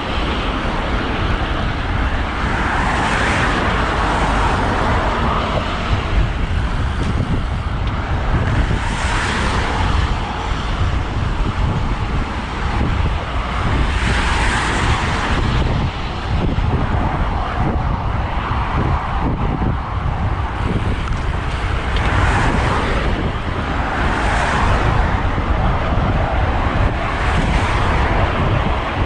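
Riding a road bike along a road in traffic: steady wind rumble on the microphone, with cars passing every few seconds, each a brief swelling whoosh.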